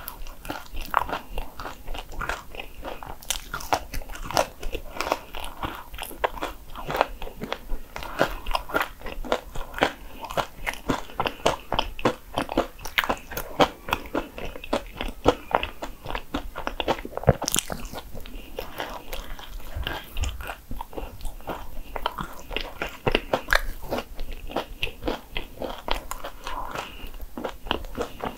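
Close-up crunching and chewing of Hong Kong egg waffle, a dense run of crisp bites and chews.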